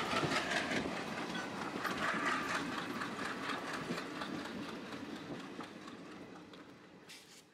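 Passenger train running on the track, heard from on board: the wheels click rhythmically over the rail joints under a steady rumble, with a high steady whine in the first second. The sound fades out gradually to silence.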